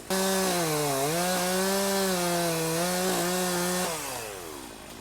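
Chainsaw running at full speed and cutting, its pitch dipping briefly under load about a second in, then holding steady before the motor winds down to a stop near the end.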